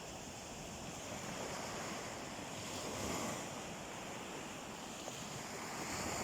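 Sea waves washing onto a beach, a steady rush that swells about three seconds in and again near the end.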